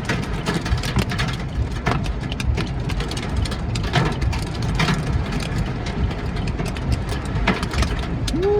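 Large hailstones striking the car in many irregular sharp hits over a steady low roar of storm wind buffeting the car.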